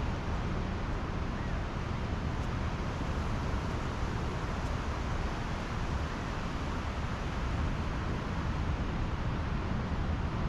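Pacific Ocean surf on the beach with wind on the microphone: a steady rushing wash of noise with a low rumble, no single waves standing out.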